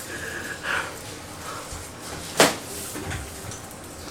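Quiet room sound with one sharp knock about two and a half seconds in, and a few faint small noises before it.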